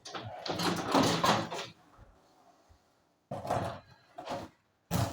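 Scraping and knocking of broken brick and concrete in a hole being cut through a wall. A rough scrape of about two seconds comes first, then three short knocks near the end.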